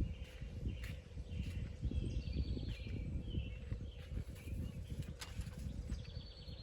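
Birds chirping and trilling over irregular low thuds and rustling, like a person walking with the microphone on them.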